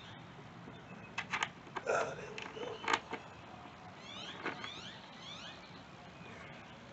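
A few sharp metallic clicks and taps of a mounting screw and brackets against a lawn mower deck and engine base as the engine is bolted on, with a few faint rising squeaks between them.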